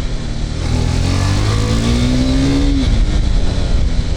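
KTM RC 390 single-cylinder motorcycle engine under way, the revs climbing for about two seconds from roughly a second in and then falling away, over a steady rush of wind and road noise.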